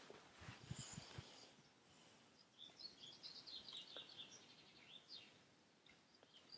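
Faint bird chirping: a quick run of high twittering chirps about halfway through, with a few scattered chirps after. A few soft low thumps come in the first second.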